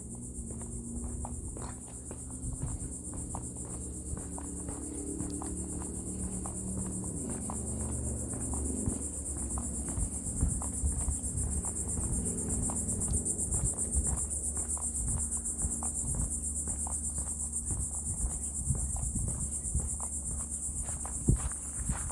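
Chorus of insects, a steady high-pitched trill that does not let up, over a low rumble with scattered soft clicks and knocks.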